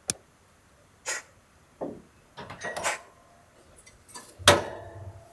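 A series of separate clicks and knocks, like things being handled and set down, with a quick double click at the start and the loudest knock about four and a half seconds in.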